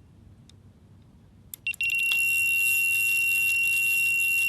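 Electronic fishing bite alarm: a few scattered beeps, then from about two seconds in a loud, continuous high-pitched tone as line runs out, with a fast clicking over it.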